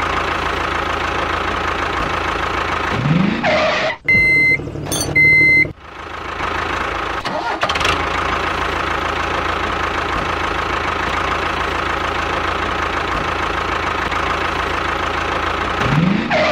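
Steady running noise of a tractor engine, at an even loud level. It breaks off about four seconds in for a couple of seconds of short high electronic beeps, then resumes.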